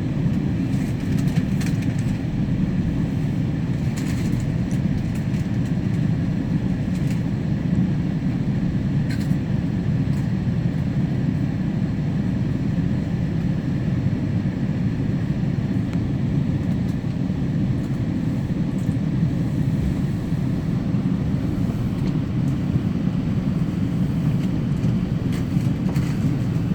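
Steady low rumble of a GO commuter train heard from on board as it rolls along, with a few light clicks and rattles now and then.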